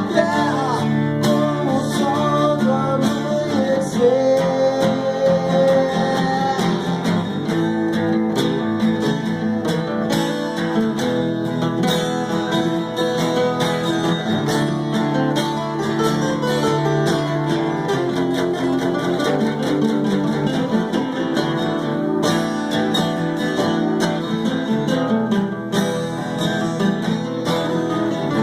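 Acoustic guitar playing a continuous picked and strummed country-style instrumental passage.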